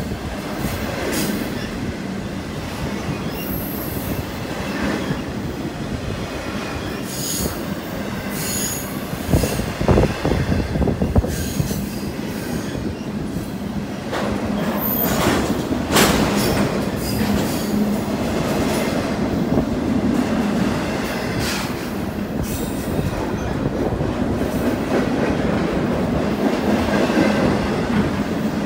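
Double-stack intermodal freight cars rolling past at speed: a steady noise of steel wheels on rail, with brief high wheel squeals and clacks over the rail joints. Several sharper bangs come about ten seconds in and again at about sixteen seconds.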